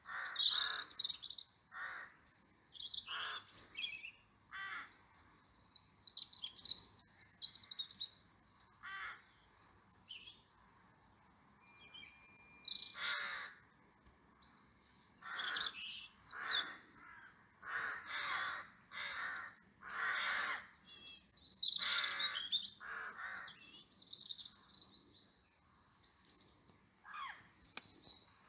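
Birds calling: a long series of short, repeated calls in irregular groups with brief pauses between them, mixed with higher chirps.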